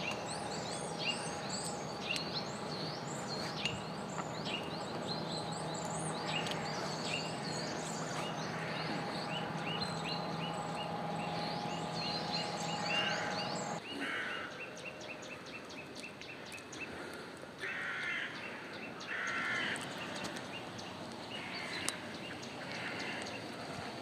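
Small birds chirping rapidly and repeatedly, over a steady low hum. About two-thirds of the way in, the hum cuts off abruptly; after that the chirps thin out and a few short, harsher calls sound.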